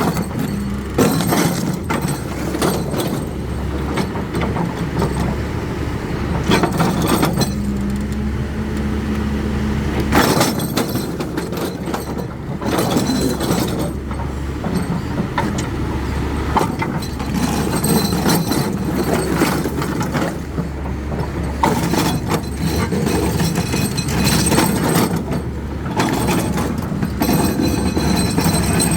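Heavy excavator engine running under load while rock is worked, with many sharp cracks, knocks and clinks of stone against steel over a steady low hum.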